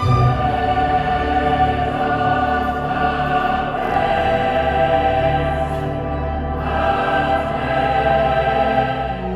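Classical choral music: a choir singing long held notes.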